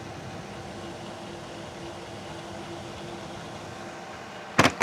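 Simulated road-speed wind from electric fans at full power blowing into an open-visor motorcycle helmet, as picked up by a DJI Mic Mini inside the helmet wearing its furry deadcat windscreen, with noise cancellation on: a steady, even hiss with a faint hum. A few sharp clicks near the end.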